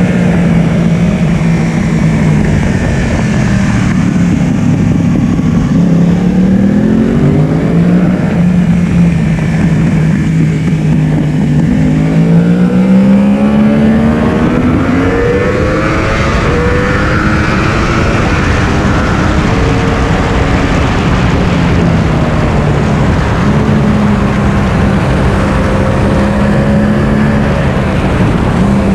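Yamaha R1's inline-four engine running hard at track speed, its pitch rising twice as the bike accelerates, with steady wind rush over the onboard microphone.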